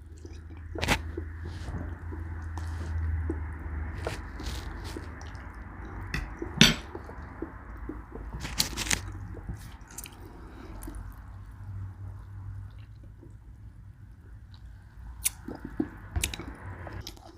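Scattered sharp clicks of a utensil against a dish, with soft wet squishing and chewing of a hot, cheesy enchilada casserole.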